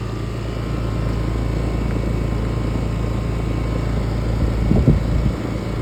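Outdoor air-conditioner condenser unit running: a steady low hum from its compressor and fan. About five seconds in there is a brief louder low rumble.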